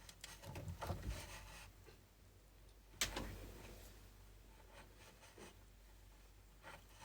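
Faint rustling and small handling noises close to the microphone, with one sharp click about three seconds in.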